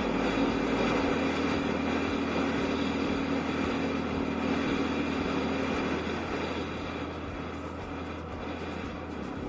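Yamaha Aerox scooter's single-cylinder engine running at a steady cruise under wind noise while riding, its note easing off about six seconds in.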